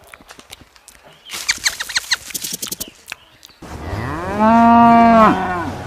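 A cow mooing once: a long, loud call that rises and then falls in pitch, starting about halfway through. Scattered clicks and rustles come before it.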